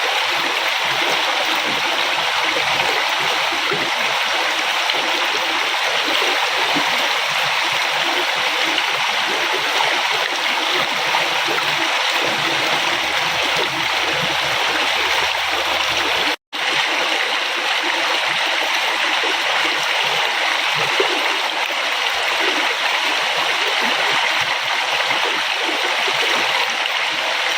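River water flowing steadily, an even rushing noise. It cuts out for a split second about two-thirds of the way through, then carries on unchanged.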